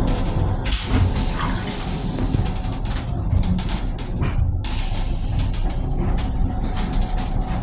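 Metro-North M7 railcar running, heard from inside its restroom: a steady low rumble, with a rushing hiss that comes in suddenly about a second in, eases off, and returns about halfway through.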